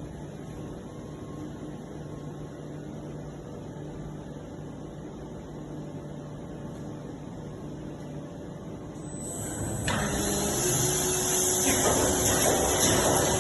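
Plastic injection moulding machine running with a steady hum; about ten seconds in, a louder hissing noise with a faint steady tone starts and continues.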